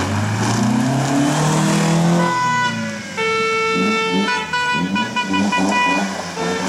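Historic rally car engine accelerating hard, its pitch rising over the first two seconds, then a series of short revs. Spectators' horns blare steady tones over it from about three seconds in.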